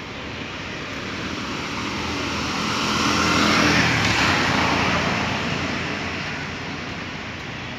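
A vehicle passing by: its noise swells steadily to a peak about three and a half seconds in, then fades away.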